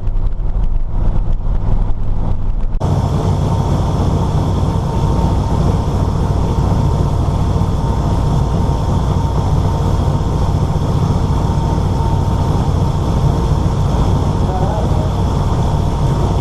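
Vehicle engine running steadily. About three seconds in the sound changes abruptly to a brighter, noisier version, as at a cut between recordings.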